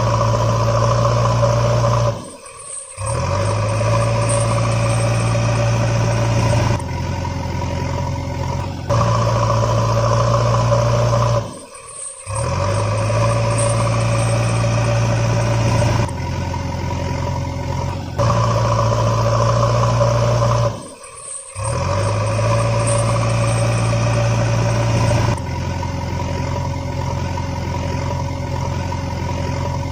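Truck engine sound running steadily, played as a loop that repeats about every nine seconds, each pass broken by a brief dropout.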